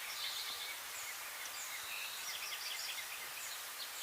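Birds chirping in short, scattered calls over a steady background hiss of outdoor ambience.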